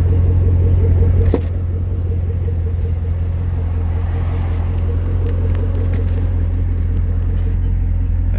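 Supercharged 6.2-litre V8 of a 2014 Camaro ZL1 idling steadily with a deep low hum, heard from the car. A sharp click about a second in, after which the idle sounds slightly quieter.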